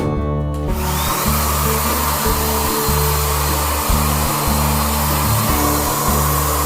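A steady, loud rushing noise from a motorised tool or blower starts under a second in and keeps going over background music.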